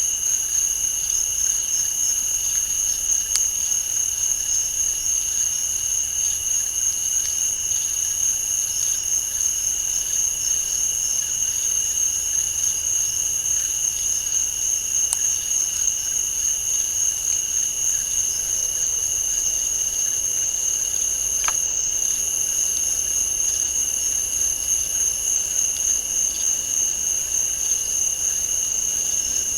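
Night insect chorus of crickets and other insects, trilling steadily at several high pitches without a break, with a few faint, isolated ticks.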